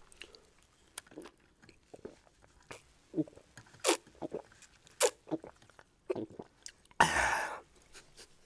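Close-up eating sounds of instant noodles: scattered soft smacks and chewing clicks, then a loud breathy burst lasting about half a second around seven seconds in.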